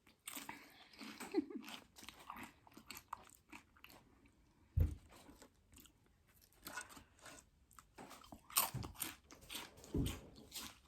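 Close-miked crunching and chewing of Doritos Flamin' Hot loaded nachos, with irregular crisp crunches. Two low thumps come about five and ten seconds in.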